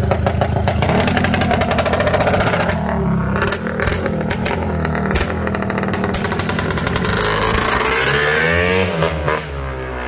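Rokon Cobra 340 MX's two-stroke single-cylinder engine revving as the bike rides off. About a third of the way in its firing breaks into separate pops for a couple of seconds, then near the end the revs rise and fall.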